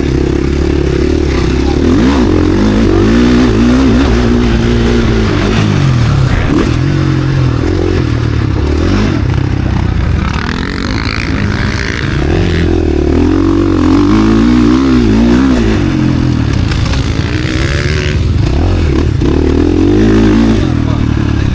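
KTM SX-F Factory Edition four-stroke single-cylinder motocross engine revving hard and easing off again and again as the bike is ridden around the track. The pitch rises and falls in repeated sweeps, with a short lull about eleven seconds in.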